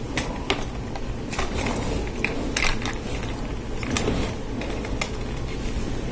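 Plastic Lego Technic pieces being handled and pressed together: irregular small clicks and taps.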